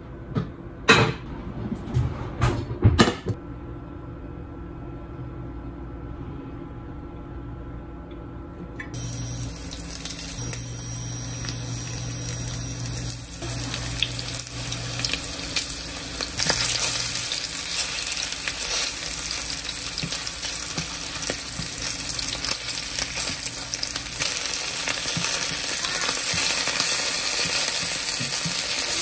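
A few knocks, then food sizzling in hot oil in a pan; the hiss grows louder and stays steady.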